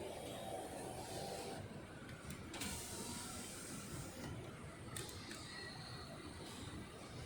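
Toyota Camry 2.5-litre four-cylinder engine running steadily, a low mechanical rumble with a few light clicks.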